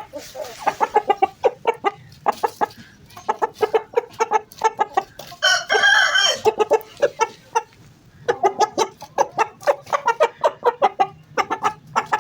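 Aseel chickens clucking in quick runs of short, repeated calls with brief pauses between runs, and one louder, higher-pitched call about halfway through.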